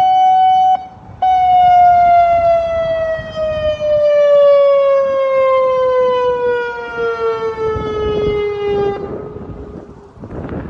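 Severnside warning siren sounding a steady tone that breaks off briefly about a second in, then comes back and slowly falls in pitch until it fades out near the end, a test run after repair. Wind on the microphone near the end.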